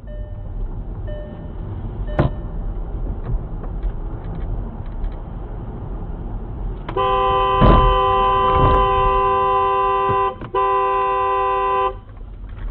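Low road and engine noise from a moving car, then a car horn held for about five seconds with one short break. Two loud thumps come just after the horn starts.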